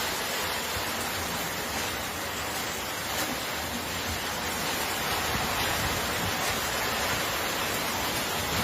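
Heavy storm rain pouring down in a steady hiss.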